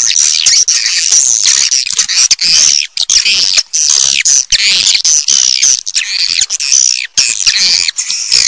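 A dense chorus of edible-nest swiftlets: many rapid, overlapping high twittering chirps that rise and fall in pitch, with only brief breaks. It is a loud recorded swiftlet call track of the kind played to lure swiftlets into nesting houses.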